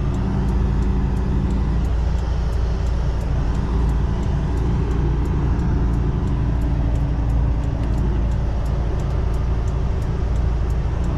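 Semi-truck diesel engine running steadily at low revs, heard from inside the cab, with the hazard flashers ticking about twice a second.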